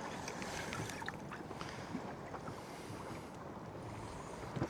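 Steady wind and sea noise around a small boat drifting at sea, with faint scattered clicks.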